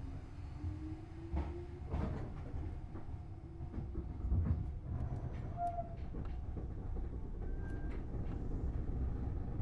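Tobu Railway Series 6050 electric train heard from inside a motor car while running: a steady low rumble with scattered sharp clicks from the wheels and rails. A faint whine rises in pitch over the first few seconds.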